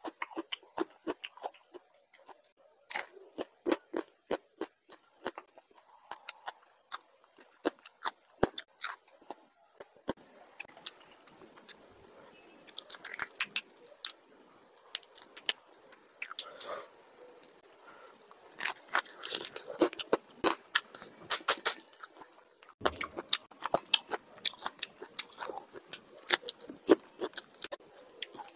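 Close-miked eating: chewing, lip smacks and crunches as fried fish, prawns and curry-soaked rice are eaten by hand, with many short sharp mouth clicks throughout.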